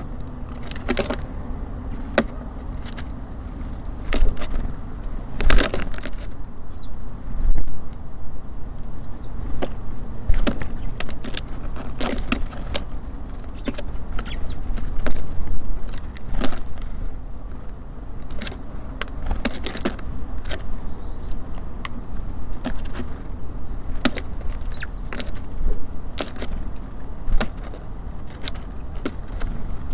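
Small birds such as tits and sparrows at a feeder, heard close up: irregular sharp taps and clicks from pecking and hopping on the feeder, with a few faint high chirps, over a steady low rumble.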